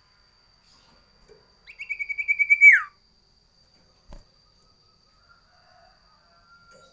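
A sirtu, a form of the common iora (cipoh), gives one call about two seconds in: a rapid, stuttering note held at one pitch for about a second, ending in a steep downward slur. A brief soft knock follows a little later.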